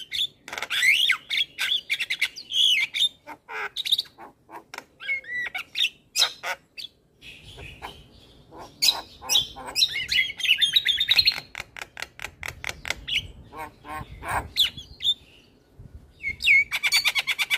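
Male Javan myna singing a long, varied song full of filler notes: harsh chatters, squawks and rapid clicking rattles, with short pauses between phrases and a dense rattling burst near the end.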